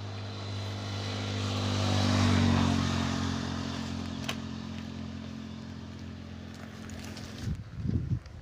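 A motor vehicle engine running with a steady low hum. It grows to its loudest about two seconds in, fades slowly, and stops near the end.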